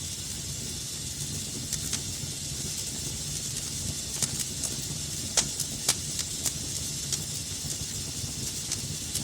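Wood fire burning in a fireplace: a steady hiss and low rumble with irregular sharp crackles and pops, two of them louder a little past the middle.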